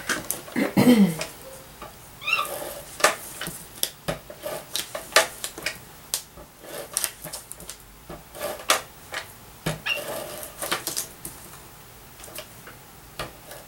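Irregular light taps and clicks of paper pieces and craft supplies being handled on a tabletop while a die cut is glued down, with a short pitched sound about a second in.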